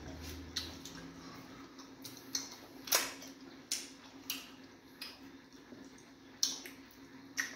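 Eating sounds from fufu with egusi soup: about ten wet mouth clicks and smacks of chewing at irregular intervals, the loudest about three seconds in, over a steady low hum.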